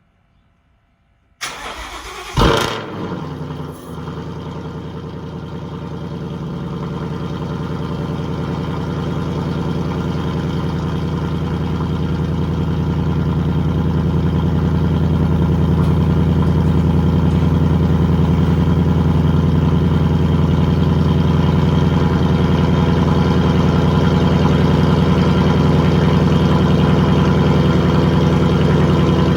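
Supercharged Ford 5.0 V8 of a Roush RS3 Mustang cold-starting through its open active exhaust: a brief crank about a second and a half in, a loud flare of revs as it catches, then a steady fast idle.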